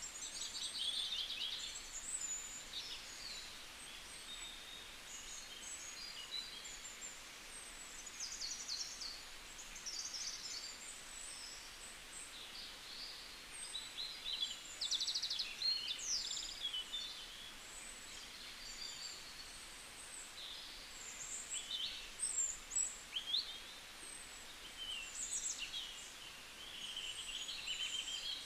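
Small birds chirping and twittering without pause: many short calls, quick sweeps and rapid trills from several birds, over a steady hiss.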